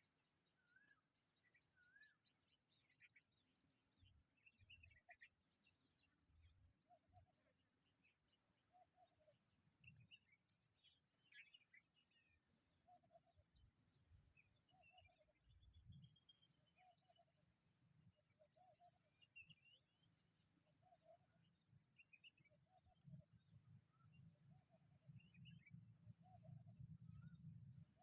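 Faint outdoor birdsong: scattered short bird chirps, and a soft low call repeating at a steady pace, over a steady high insect drone.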